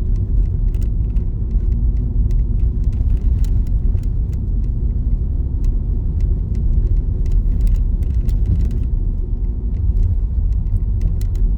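Steady low rumble of a car driving on a snowy road, heard from inside the cabin, with scattered faint light ticks throughout.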